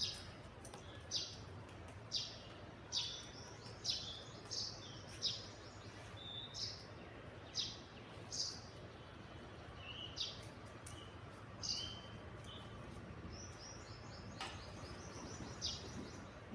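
Small birds chirping: short, high chirps, one or two a second at an uneven pace, over a faint low hum.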